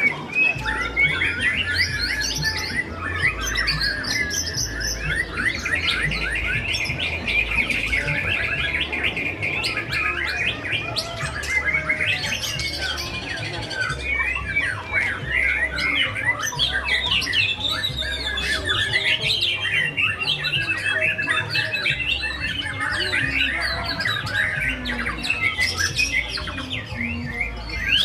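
White-rumped shamas singing at once in a dense, unbroken chorus of rapid whistles, trills and harsh calls, over a low rumble.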